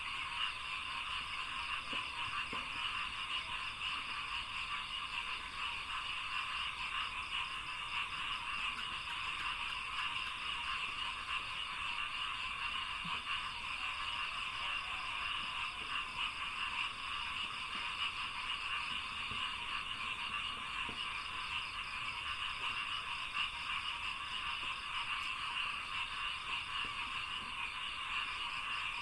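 A dense, steady chorus of many frogs calling together, a continuous rapid pulsing without pause.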